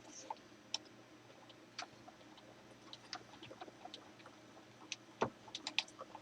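Faint, scattered clicks and light taps of metal machine parts being handled, with a sharper knock about five seconds in and a quick run of clicks near the end.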